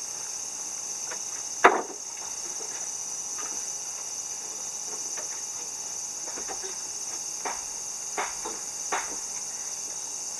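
Steady high-pitched drone of insects singing, with a few scattered sharp knocks and one louder knock about two seconds in.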